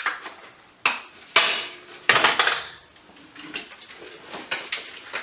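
Scrap lighting ballasts and metal parts being handled and thrown into a bucket: a few sharp metal knocks, the loudest about a second and a half in and ringing on, then a short burst of clatter and lighter ticks.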